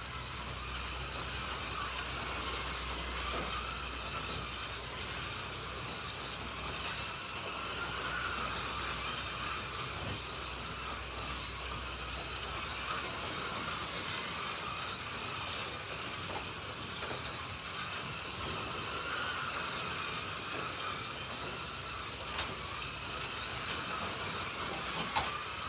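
Slot.it slot cars' small electric motors whining as they lap the track, the pitch rising and falling with throttle, with a few faint clicks.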